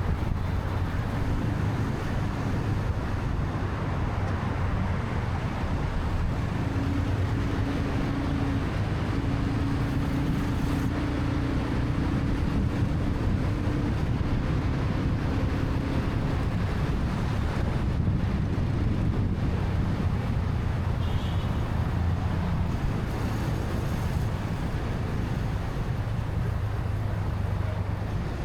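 Motorcycle riding through city traffic: steady engine and road noise with wind rumbling on the microphone, and a humming engine drone through the middle stretch.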